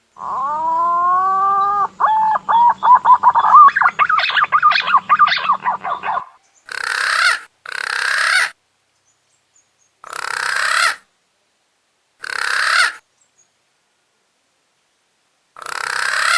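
Green pigeon (punai) call used as a lure: a long whistled note rising in pitch, then a fast warbling run of whistled notes, followed by five short hoarse calls spaced a second or more apart.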